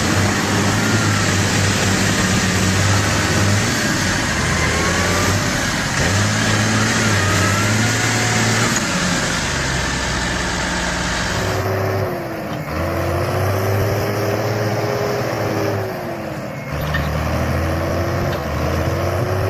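Diesel engines of heavy vehicles working hard, revving up and down repeatedly over a rough, noisy background; the sound changes abruptly about twelve seconds in and again a few seconds later, as one clip cuts to another.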